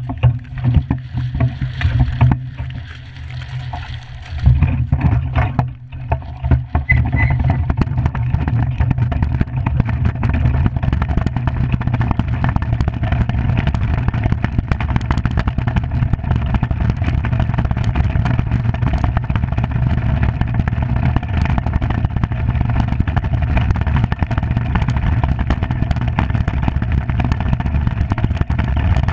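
Skimmer 45 iceboat's runners rumbling and chattering over the ice at speed, with wind buffeting the microphone. Uneven for the first few seconds, then a steady rush.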